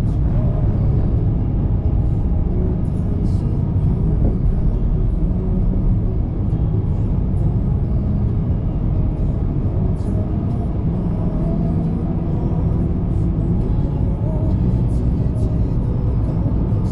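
Steady low road and engine rumble of a car driving, heard from inside the moving vehicle, with faint scattered clicks on top.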